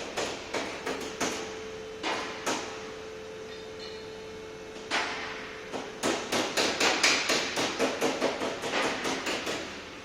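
Hammer blows in runs of sharp strikes: a few quick ones, then single strikes, then a fast run of about four a second in the second half, which is the loudest.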